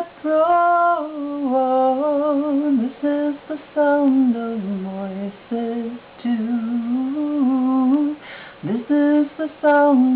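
A single unaccompanied voice humming a wordless melody in short phrases with brief gaps between them.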